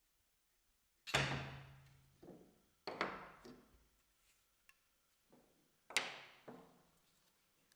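Three sharp knocks on wood, roughly two to three seconds apart, each followed by a softer knock and ringing out briefly.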